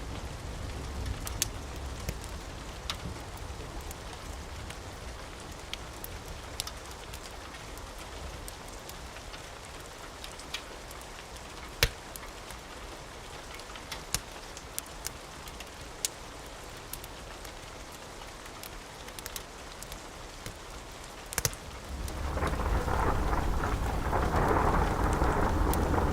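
Steady rain with scattered sharp crackles and pops from a wood fire. Near the end a rolling thunder rumble comes in and grows louder.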